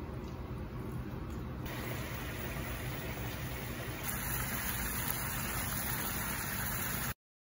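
Raw chicken pieces sizzling in melted butter in a frying pan over a steady low hum, the hiss growing brighter about two seconds in and again about four seconds in. It cuts off suddenly near the end.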